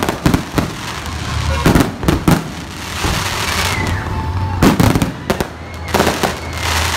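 Aerial fireworks display at full barrage: sharp bangs of bursting shells coming in quick clusters, with crackling between them.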